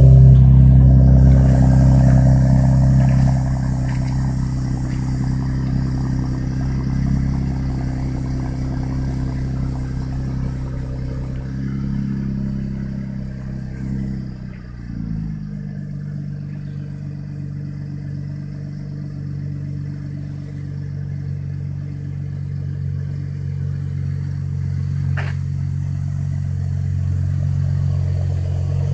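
2014 Camaro 1LS's 3.6-litre V6 idling after a cold start through a resonated X-pipe with the mufflers deleted. The idle steps down to a lower, steady note about halfway through as the cold-start fast idle settles.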